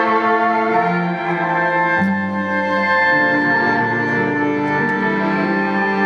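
Live instrumental music: layered, looped violin with sustained notes. A new low note enters suddenly about two seconds in.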